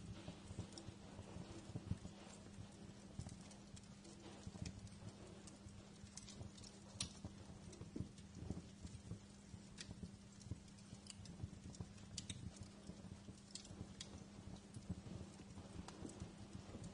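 Wood fire crackling: scattered, irregular pops and snaps, a few sharper than the rest, over a steady low hum.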